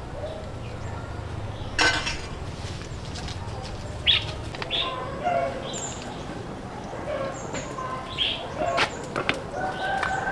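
Chickens clucking, short pitched calls scattered through the second half, with a sharp knock about two seconds in.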